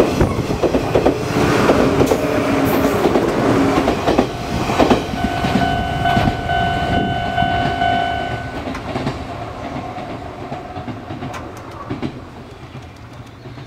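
Izuhakone Railway electric train passing over a level crossing, its wheels clacking over the rail joints. A steady ringing tone, the crossing's warning signal, sounds through the middle and stops about 8 seconds in, and the train's rumble then fades away.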